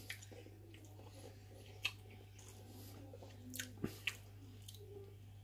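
Quiet chewing of a mouthful of puff pastry and Spam, with a few small clicks as a pastry-wrapped slice is picked up off a wooden board, over a steady low hum.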